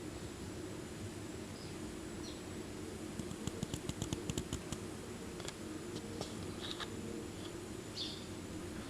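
Garden birds calling: a quick run of about a dozen sharp ticking notes, then scattered short chirps, over a steady low hum.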